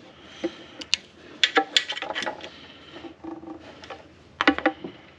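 Sharp metallic clinks and clanks from hand tools knocking against metal, in a cluster about one to two seconds in and again near the end, while a stuck cylinder head is worked loose.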